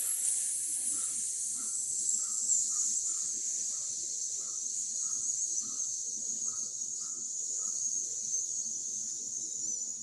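A person's long, steady "sssss" hiss on a slow exhale, the lung sound of the Six Healing Sounds qigong practice. It fades off near the end.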